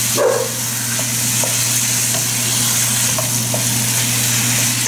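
Sliced chicken breast with diced onion and green bell pepper sizzling in olive oil in a nonstick sauté pan, stirred with a wooden spatula that scrapes the pan now and then, over a steady low hum.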